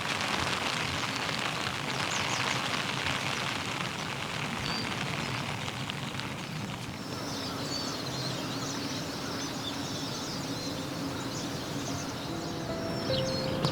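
Steady rain falling, a dense even hiss through the first half. After about seven seconds the rain thins and small birds chirp in short high calls.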